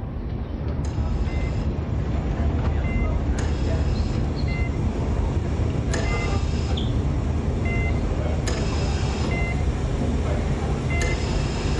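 A steady low rumble like a running vehicle, with a short high beep repeating about once a second and a sharp click every two to three seconds.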